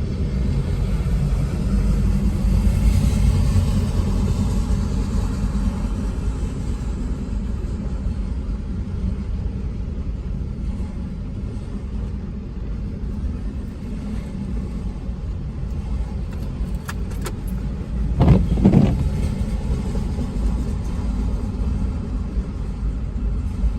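Freight train of auto rack cars rolling past: a steady low rumble of wheels on rail, with a brief louder surge and a few sharp clanks about three-quarters of the way through.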